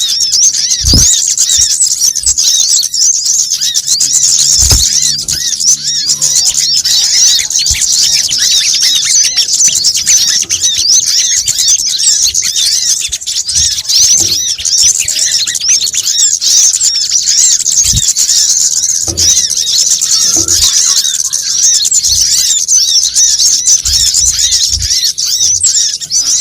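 Dense, continuous chattering of many overlapping high-pitched chirps and squeaks from small songbirds of the sunbird kind, an agitated flock-style lure call used to draw birds in. A few brief low thumps sound under it.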